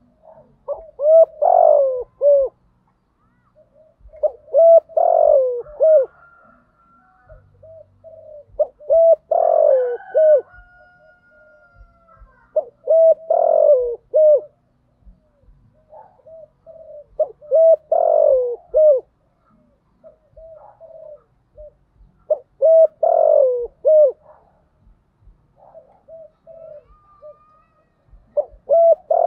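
Spotted dove cooing in repeated phrases of several coos, one phrase every four to five seconds, with softer short coos between them: a lure call used to get other doves to coo.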